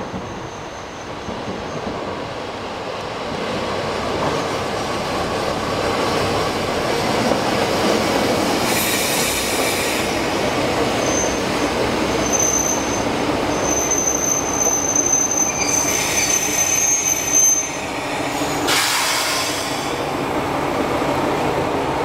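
Kyoto Tango Railway train running on the rails, growing louder over the first several seconds. A high-pitched wheel squeal sounds from about halfway through for several seconds, and there are three short hissing bursts.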